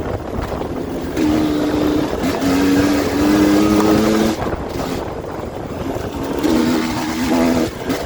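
Dirt bike engine running under throttle, its pitch holding and stepping up through the revs, dropping off about halfway through, then picking up again near the end.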